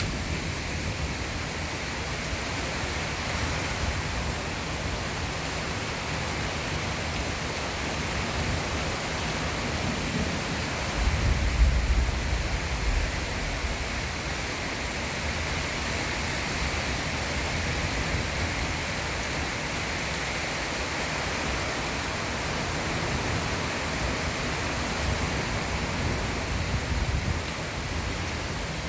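Heavy rain pouring steadily, with a short low rumble of thunder about eleven seconds in.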